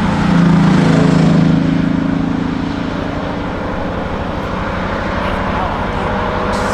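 Engine of a Porsche 964-based Kalmar 7-97 restomod running. It is loudest from about half a second to a second and a half in, then settles to a steadier, somewhat quieter drone.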